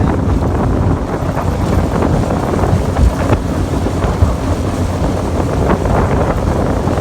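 Loud, steady wind rumble buffeting the microphone, with no clear tone from a motor.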